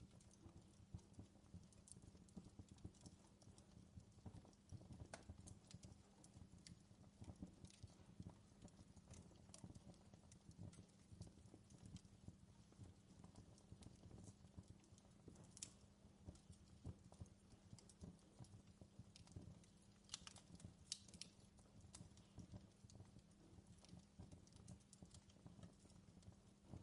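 Faint crackling of a wood fire in a fireplace: a dense, irregular patter of small pops and snaps over a low rumble, with a few sharper snaps about two-thirds of the way through.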